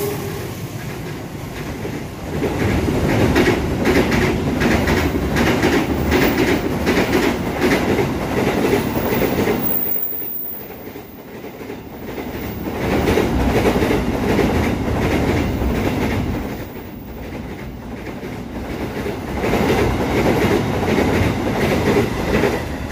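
Train passing, its wheels clicking over the rail joints in a steady clatter that swells and fades as the cars go by.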